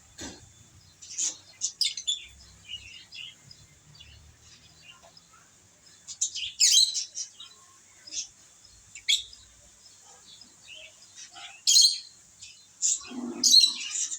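Pet lovebirds chirping: short, sharp high-pitched chirps at irregular intervals, a few louder calls standing out among softer ones.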